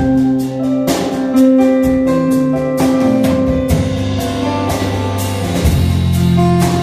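Live band playing an instrumental passage: a drum kit with regular cymbal hits over held guitar and low notes.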